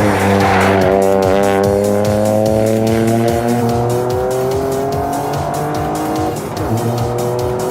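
Toyota hydrogen-combustion engine pulling under acceleration, its pitch climbing steadily for about six seconds, dropping briefly near the end, then climbing again.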